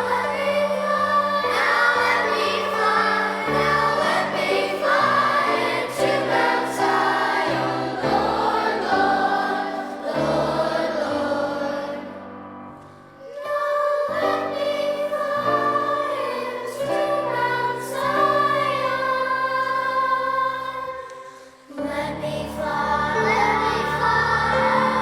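Children's choir singing over low held accompaniment notes, with two brief drops in sound, around halfway through and again near the end.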